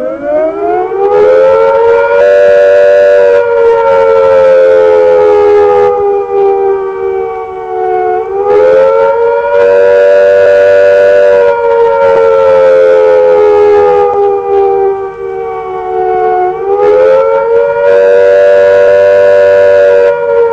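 Civil defence siren sounding the air attack warning: a loud wailing note that rises over a second or two, then slides slowly down, rising again about every eight seconds.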